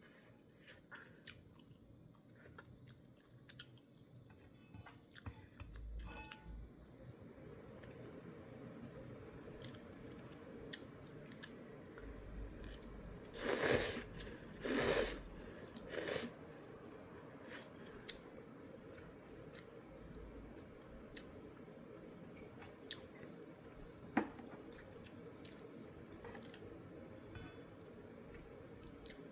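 A person eating instant ramen: chewing with scattered small clicks throughout, and three loud noodle slurps in quick succession near the middle.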